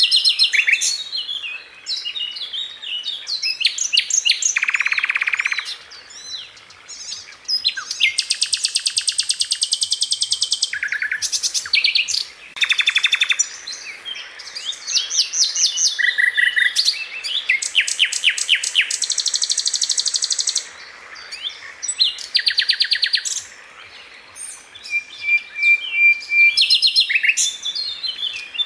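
Sikatan Londo flycatcher singing: a fast run of rapid, dense trills and sharp chirps, each trill lasting one to three seconds, with short whistled notes between and brief pauses.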